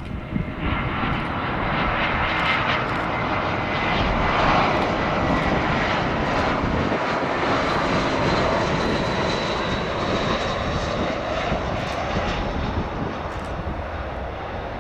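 Jet airliner's engines rushing and whining as the plane passes close by. The sound comes in sharply about half a second in, is loudest about four seconds in, and fades slowly.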